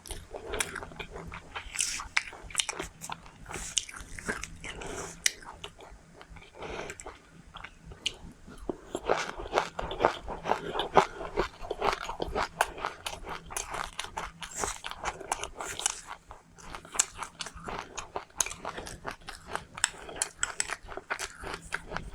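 Close-up chewing and crunching of food in the mouth: a steady run of crisp crackles and clicks, busiest in the middle stretch.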